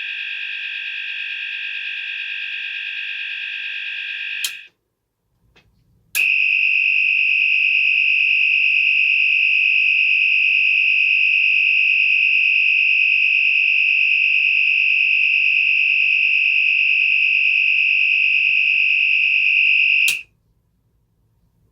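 Cooper MIN-T electronic fire alarm sounder running through its tones. One steady multi-pitched tone cuts off with a click about four and a half seconds in. After a short pause another click starts a louder, steady, high-pitched tone, which runs for about fourteen seconds and then cuts off with a click as the sounder is powered down.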